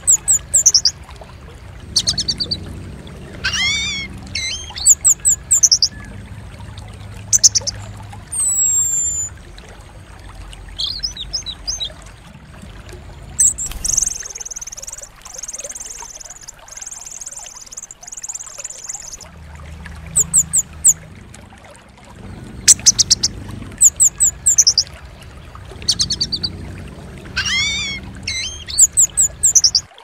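Bird-call recording of the kind played to rouse caged orange-headed thrushes into song: repeated bursts of quick, high chirps and short trills, with a buzzy high chirring lasting several seconds in the middle. A low hum runs underneath.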